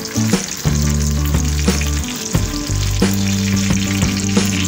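Breaded eggplant slices frying in hot oil in a pan, sizzling steadily, with a fork moving the pieces. Background music with held low notes and a steady beat plays over it.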